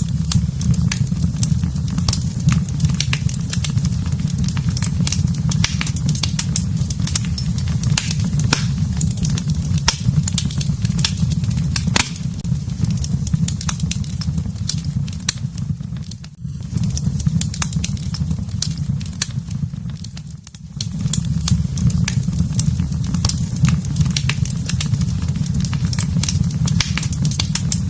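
Wood fire burning in a fireplace, crackling with many sharp pops over a steady low rumble of flames. The sound dips briefly twice, about sixteen and twenty seconds in.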